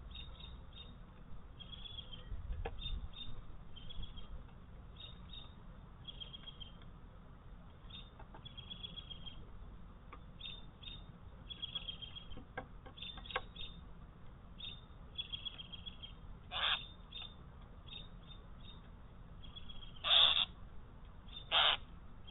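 Wild birds at a feeder chirping repeatedly in short notes, with three louder, harsher calls in the second half.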